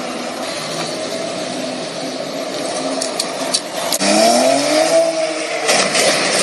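Car engine running under steady road and tyre noise, with a few sharp clicks; about four seconds in, the engine revs up and back down.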